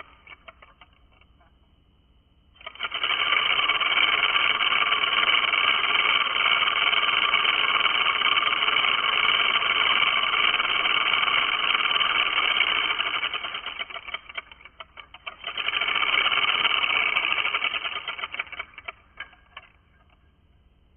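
Tattoo machine running slow, its needle buzzing in a fast, even rattle. A long run starts about two and a half seconds in and dies away around fourteen seconds. A shorter run follows and sputters out near the end.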